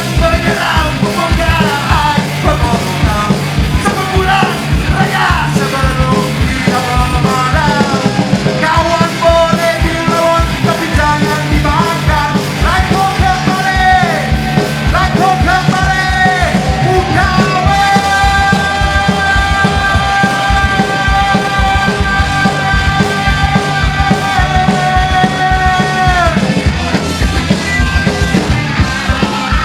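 Punk rock band playing live: fast, driving drums under distorted guitars, with a melody line that bends between notes and then holds one long note for several seconds before falling away.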